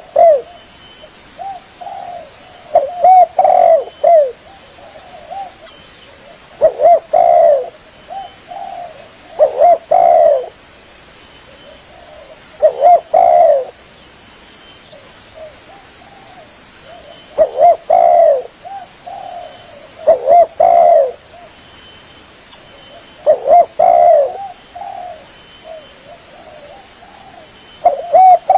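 Spotted dove (tekukur) cooing: a short phrase of several coos, about a second long, repeated every three to four seconds.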